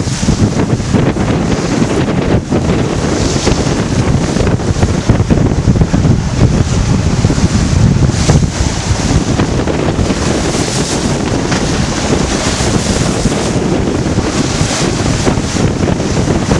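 Heavy wind buffeting the microphone over the rush and slap of choppy water against a sailboat's hull as it beats close-hauled in about 18 knots of wind. A higher hiss swells and fades every few seconds.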